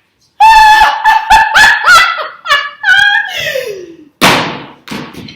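A run of loud, high-pitched honking squawks, several in quick succession, the last sliding down in pitch, followed by a short burst of hiss.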